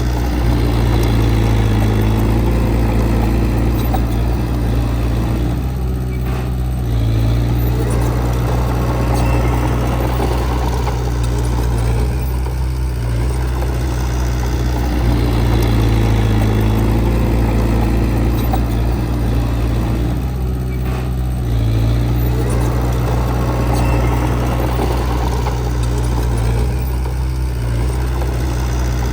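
Heavy-equipment diesel engine running steadily with a deep, even note, easing off briefly and picking up again every seven seconds or so.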